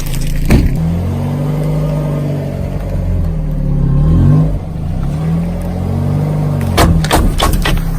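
A vehicle engine revving up and down repeatedly, with one sharp crack about half a second in and a quick cluster of cracking, crunching snaps near the end.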